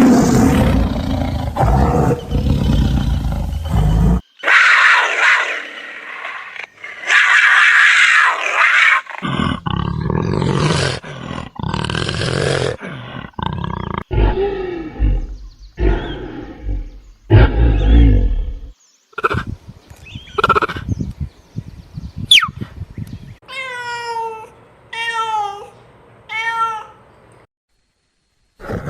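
A string of big cat calls cut one after another: deep roars and growls, stretches of hissing, a run of short deep grunting calls, then four high, falling, meow-like calls near the end.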